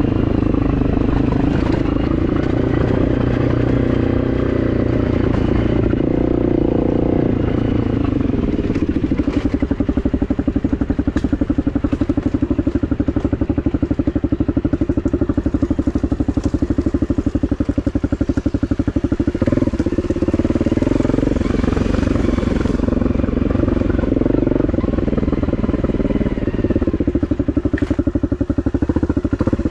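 Honda CRF250 dirt bike's single-cylinder four-stroke engine running as it is ridden, with a few sharp clicks and clatter over the engine.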